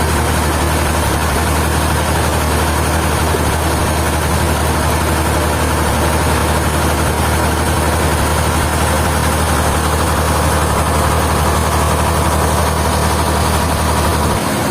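Heavy engine idling steadily with a low, even drone.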